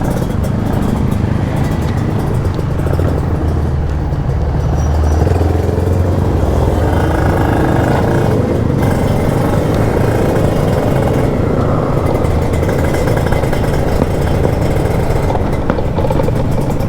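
Kawasaki Ninja 150 RR two-stroke engine and exhaust running steadily under way while the bike is ridden.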